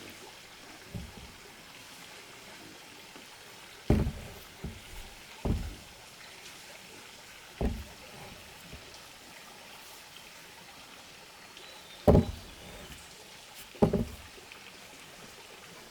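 A series of dull knocks at irregular intervals, about seven in all, the loudest two about four and twelve seconds in, over a faint steady background.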